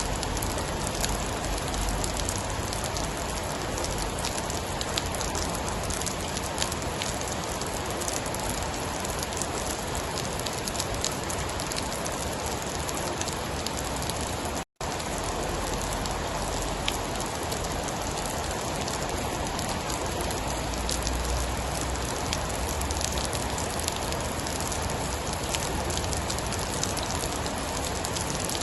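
Steady heavy rain falling, with scattered sharp drop ticks through the hiss. The sound cuts out completely for an instant about halfway through.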